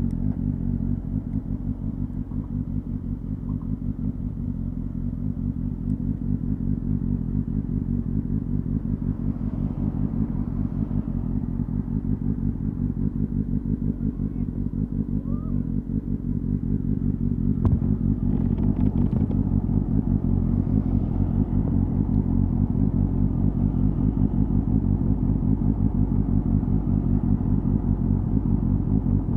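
Honda Hornet 250's inline-four engine and exhaust running steadily, with a fast even pulse. It gets a little louder about two-thirds of the way through, just after a single sharp click.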